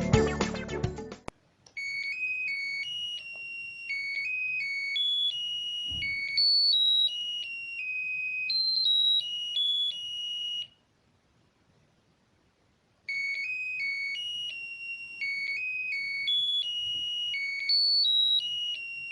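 Electronic doorbell melody from a Znatok electronics kit's melody chip, played through the kit's small loudspeaker as a tune of clean, high beeping notes. The tune runs about nine seconds, stops for about two seconds, then starts again from the beginning. Music ends sharply about a second in.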